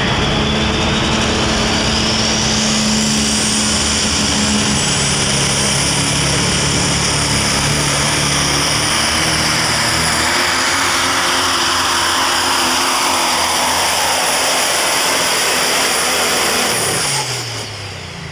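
Super stock diesel pulling truck running at full throttle under load. A high turbo whistle climbs over the first few seconds and then holds. Near the end the throttle is let off, and the engine and turbo whistle wind down together.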